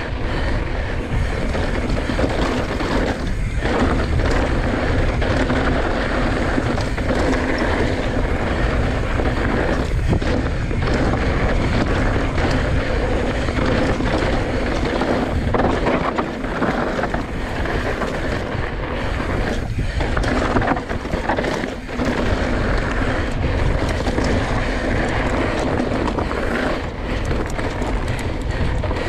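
Mountain bike descending a rocky trail at speed: wind rushing over an action camera's microphone, which has no wind cover, with tyres grinding over dirt and rock and frequent short knocks and rattles from the bike over bumps.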